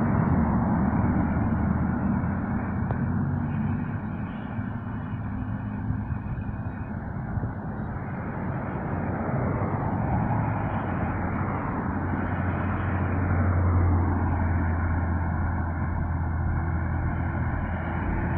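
Road vehicle noise: a steady low engine hum over tyre and road rumble, swelling a little past the middle and then easing.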